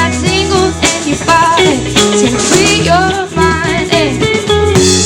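Live band music: acoustic guitar and bass with shaker percussion, a voice gliding through wordless sung notes.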